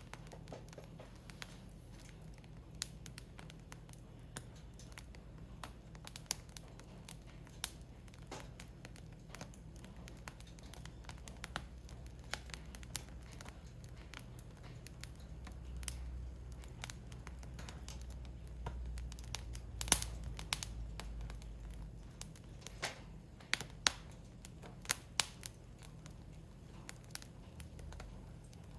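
Firewood burning in a Picogrill fire pit, crackling with irregular sharp pops, one loudest snap about two-thirds of the way through. A low rumble swells in the middle and fades again.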